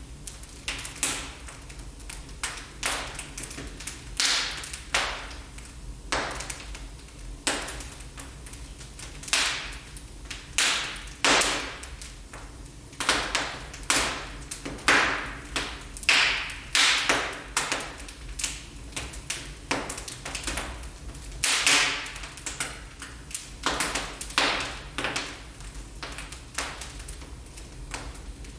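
Wood fire in a fireplace crackling, with frequent irregular sharp pops over a low, steady rumble.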